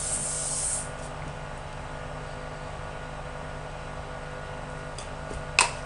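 Aerosol hairspray hissing as it is sprayed onto the hair, cutting off about a second in. A steady low hum carries on underneath, with a sharp click near the end.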